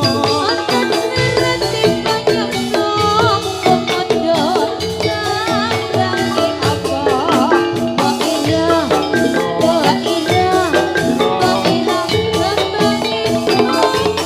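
Javanese gamelan music accompanying a jathilan horse dance: bronze metallophones struck in a steady busy rhythm over drumming, with a wavering melodic line above them.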